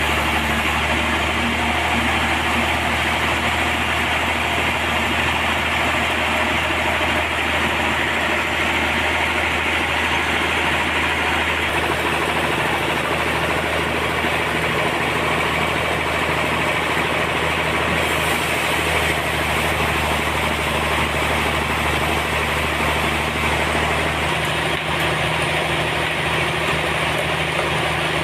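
Sawmill machinery running steadily: a constant drone with a rushing hiss over it.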